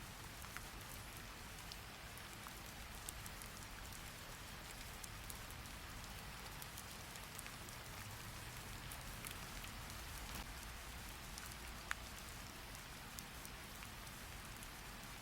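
Steady rain, an even hiss with scattered sharp drip taps, and one louder click near the end.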